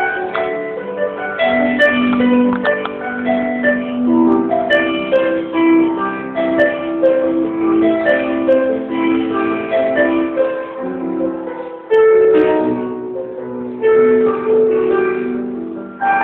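Electronic keyboard playing a solo: a melody over held chords, with loud new chords struck about twelve and fourteen seconds in.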